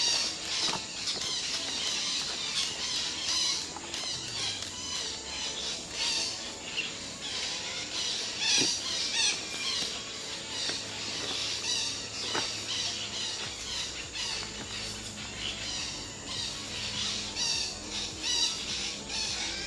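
Blue-rumped parrots calling: rapid, repeated high squawks and chirps. A faint low hum comes in about four seconds in.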